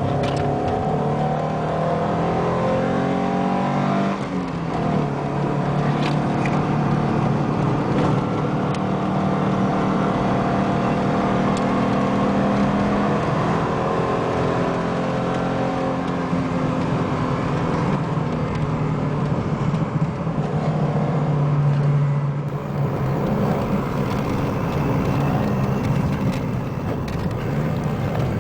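Alfa Romeo 33 1.7 16v's flat-four boxer engine running hard on track, heard from inside the car. Its pitch climbs and drops sharply about four seconds in, then rises and falls again as the car goes round the circuit.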